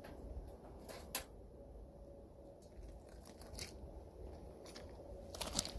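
Weasel chewing on a chicken leg: faint, scattered crunching clicks, the sharpest just over a second in.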